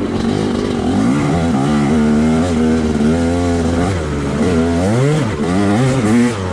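Two-stroke dirt bike engine being ridden hard, the revs climbing and holding, dropping about four seconds in, then a quick rev up and down and another climb near the end.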